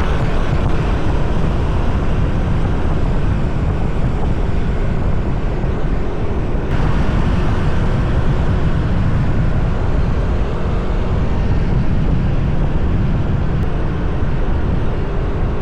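Steady rush of wind and road noise on a microphone carried on a moving motor scooter, heavy in the low end, with the scooter's engine under it.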